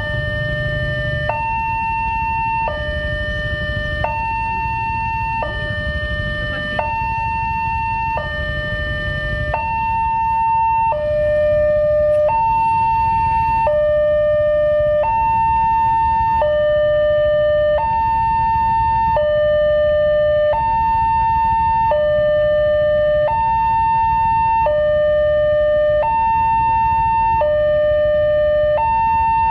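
Railway level-crossing warning alarm sounding: two electronic tones alternating high and low, each held about a second and a half, over a low rumble. It gets a little louder about a third of the way in.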